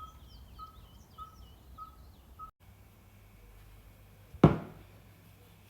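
Faint bird-like chirping: a short high note repeating about every half second, with wavering higher chirps over it, stopping abruptly. A single sharp knock comes about 4.5 s in, and another at the very end.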